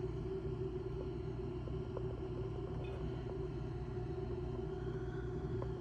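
Steady low mechanical hum and rumble, with a few faint small ticks.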